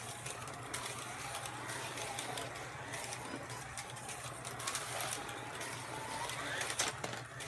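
Carrera Digital 132 slot cars' small electric motors whining around the track, the pitch rising and falling as they speed up and slow down, with a few sharp clicks and a steady low hum underneath.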